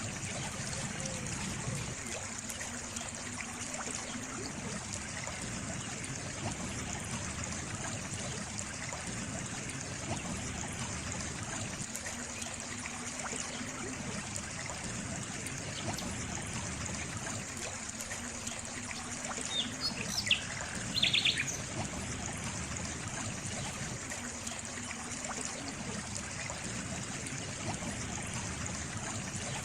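Water trickling and flowing steadily, like a small stream. About two-thirds of the way in a bird gives a brief call of a few quick high chirps.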